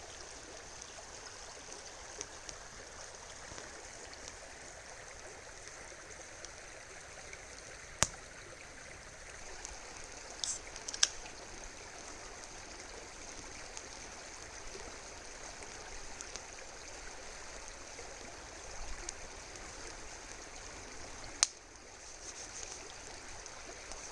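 Steady rushing of a river's flowing water, broken by a few sharp snaps and pops from a burning wood campfire, about eight, eleven and twenty-one seconds in.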